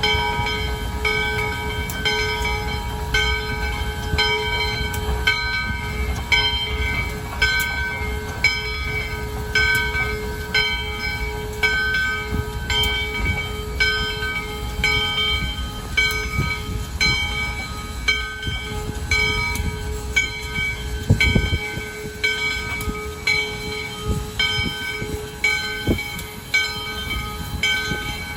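A bell ringing steadily, struck about once a second, over the low rumble of a moving train. The rumble drops away about 21 seconds in while the bell keeps ringing.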